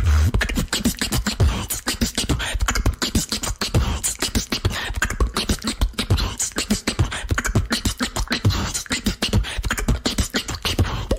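Female beatboxer performing a fast beatbox routine: rapid vocal kick, snare and hi-hat sounds with deep bass hits, several a second.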